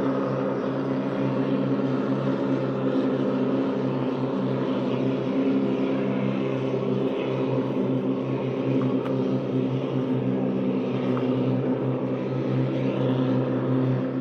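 Boat engine converted from a Mitsubishi L300 van, running steadily with an even, unbroken drone.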